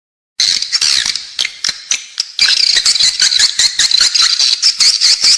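Recorded twittering of edible-nest swiftlets, the indoor lure call played in swiftlet houses to attract birds to nest: a dense flock of high chirps and clicks. It starts abruptly after a moment of dead silence and grows denser about two seconds in.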